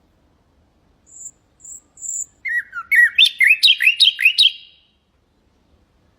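Nightingale singing one phrase: three faint, thin high notes, then a fast run of about nine loud, slurred whistles that ends suddenly.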